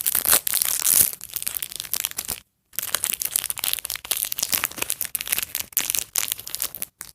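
A small surprise packet's wrapper being torn open and crinkled by hand, a dense crackling with many sharp crackles and a short pause about two and a half seconds in.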